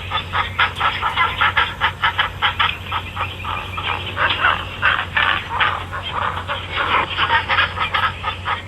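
A flock of poultry calling all at once, a dense, continuous chatter of short overlapping calls, over a steady low hum.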